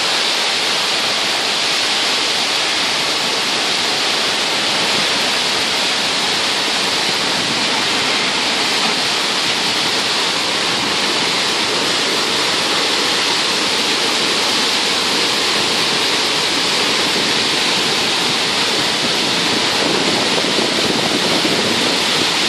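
Heavy storm rain pouring down in a steady, loud hiss, unbroken throughout.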